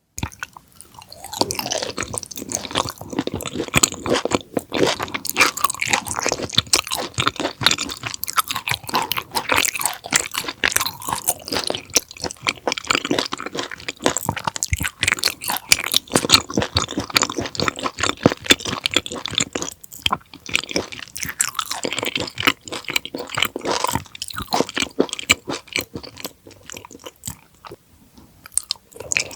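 Close-miked chewing of raw conger eel (anago) sashimi: a dense, unbroken run of crunches and mouth clicks.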